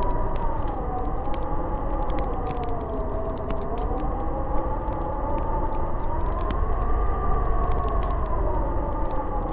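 Snowstorm wind howling: a whistling tone that slowly rises and falls over a steady rush of wind and a low rumble, with scattered sharp ticks.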